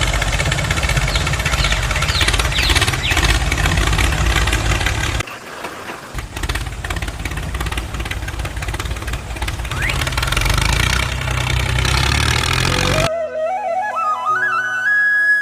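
A small motor running noisily and steadily, dipping briefly about five seconds in. Near the end it cuts off and flute music takes over.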